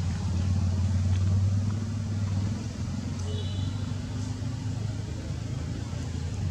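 Low, steady hum of an engine running, with a brief high-pitched squeak about halfway through.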